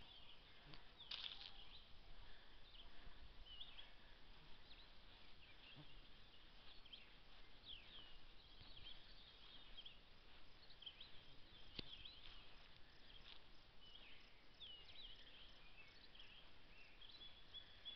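Faint rural evening ambience with distant birds chirping: short, high calls scattered every second or so over a low steady hiss.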